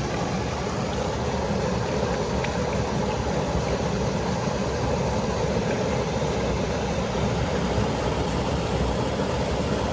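Mountain creek water rushing steadily over rocks in a plunging stretch of stream.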